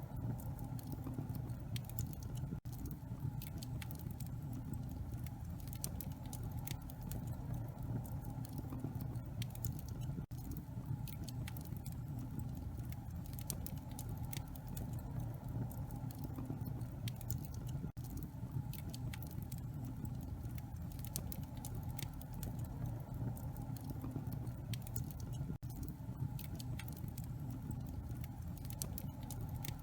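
Wood fire crackling in a fireplace: many scattered sharp pops and snaps over a steady low rumble.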